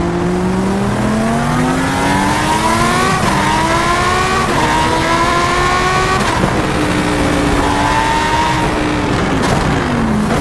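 A loud car engine accelerating through several gear changes: the pitch climbs, drops back at each shift about three, four and a half and six seconds in, and climbs again.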